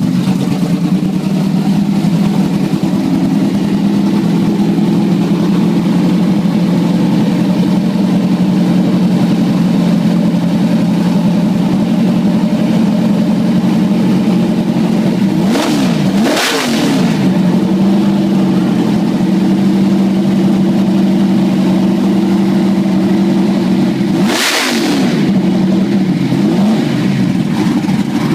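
Drag car engine running loud and steady, with two short sharp throttle blips, one a little past halfway and one near the end.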